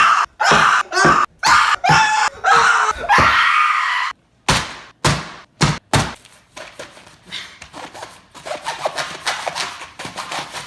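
A loud wordless voice, shouting or shrieking, for the first few seconds. Then several sharp knocks and a stretch of quieter, rapid clattering.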